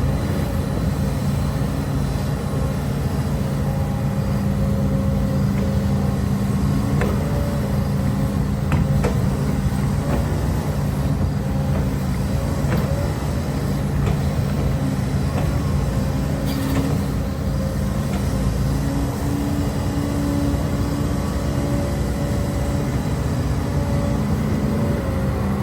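HIDROMEK HMK230LC excavator's diesel engine running steadily as it works, its pitch shifting a little, with a few light knocks.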